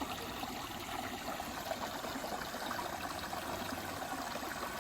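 Mountain stream water running and trickling over rocks, a steady babble.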